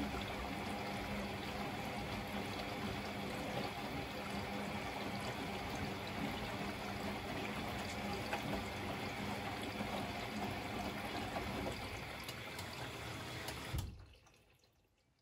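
Blomberg fuzzyDigitronic Granat 3200 washing machine moving water, either filling or pumping out, with a steady low hum under the rush of water. It shuts off abruptly about 14 seconds in.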